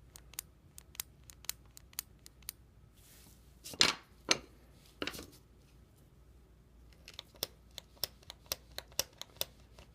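Leibinger letterpress numbering machine being worked by hand in a final test after rebuilding, a sharp mechanical click with each stroke, about two a second at first and quicker near the end. A few louder knocks come in the middle.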